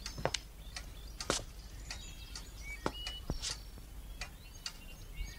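Faint small birds chirping in short calls, with a few scattered sharp clicks.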